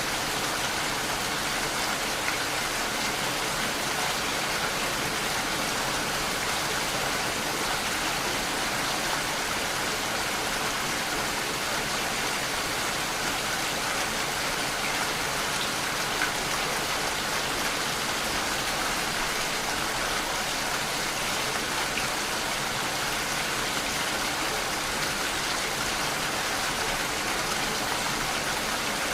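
Steady rainfall, an even hiss of many drops landing on a surface, with faint individual drop ticks.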